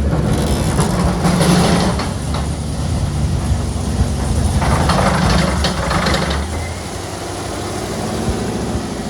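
6.0-litre LS V8 with a VCM camshaft running on an engine dyno cart, revved up twice, briefly each time, about a second in and about five seconds in, then settling back to idle near the end.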